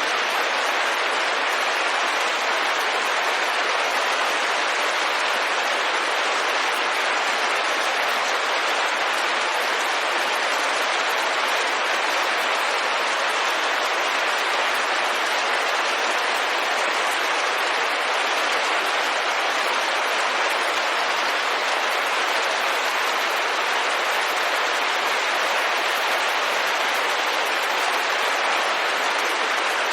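Steady, even rain falling on a window, a dense unbroken hiss that does not change.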